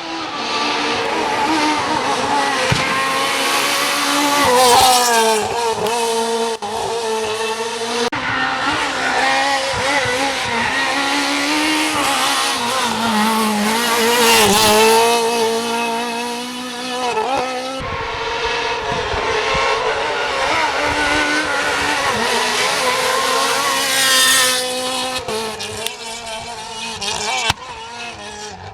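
Rally car engines revving hard as the cars run through a special stage, pitch climbing and dropping with each gear change. Several passes follow one another, cut together abruptly.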